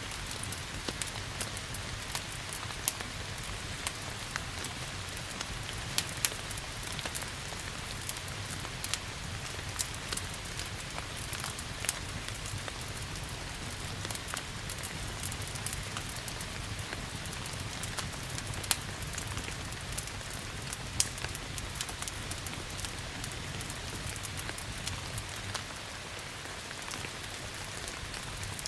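Steady rain hiss with sharp crackling pops from a wood fire scattered throughout, several a second at irregular times.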